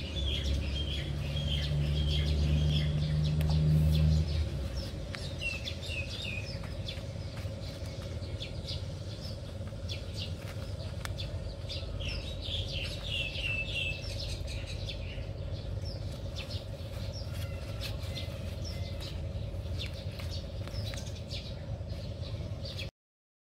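Small birds chirping in short repeated calls, with a low steady hum that is the loudest sound for the first four seconds and scattered faint clicks; the sound cuts off shortly before the end.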